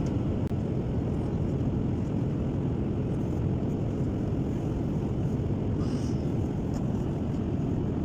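Steady cabin noise of a Boeing 787 Dreamliner, its engines and airflow heard from inside the passenger cabin as an even, low rushing sound.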